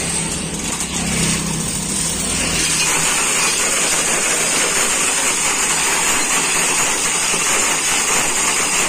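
A vehicle engine running steadily under load, growing louder and noisier about two and a half seconds in, as it climbs a step onto an unfinished road.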